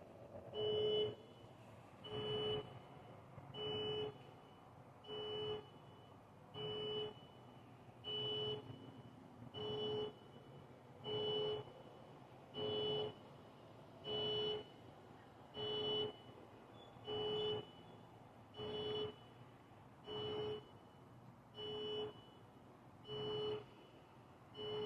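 An electronic warning beeper sounding a steady beep about every one and a half seconds, each beep about half a second long, with a low and a high tone together.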